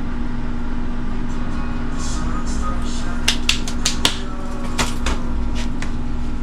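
Steady mechanical hum with a low rumble, and a cluster of sharp clicks and ticks partway through.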